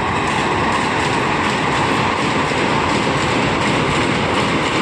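Vande Bharat Express electric multiple-unit train passing close by at high speed over a girder bridge: a loud, steady rush and rumble of wheels on rails with rapid wheel clatter.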